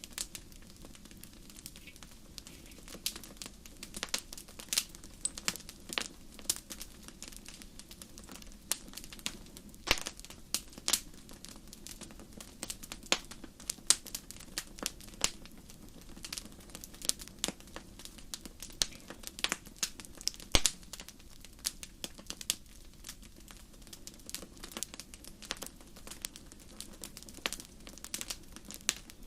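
Crackling wood fire: irregular sharp pops and snaps, several a second, over a steady low background of burning.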